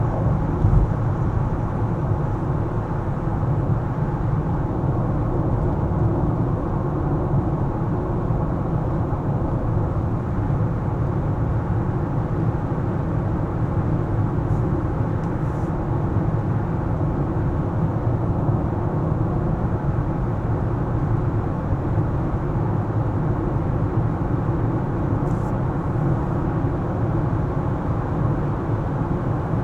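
A car driving, heard as a steady low rumble of tyre and engine noise, with a small bump about a second in.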